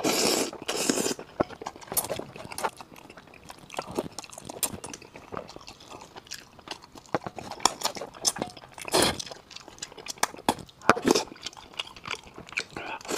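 Close-miked mouth sounds of a man eating braised fish: wet chewing and lip smacks with many short irregular clicks, and louder bursts as a bite goes in near the start and again about nine seconds in.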